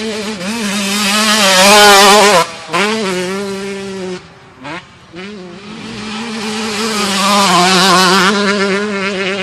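125cc two-stroke motocross bike engines at high revs, the pitch wavering with the throttle. The first grows louder and cuts off sharply about two and a half seconds in. After a short lull another builds up and is loudest near the end.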